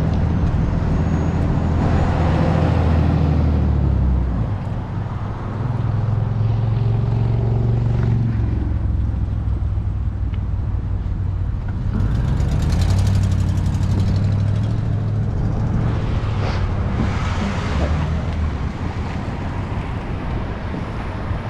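Road traffic: motor-vehicle engines and tyre noise going by, with a steady low hum that shifts in pitch every few seconds and louder passes a couple of times.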